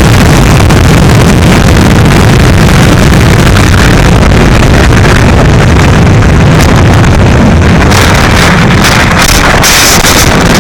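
McDonnell Douglas MD-82's two rear-mounted Pratt & Whitney JT8D turbofan engines at takeoff power, a very loud, steady rumble that overloads the microphone. In the last couple of seconds, wind gusts buffet the microphone.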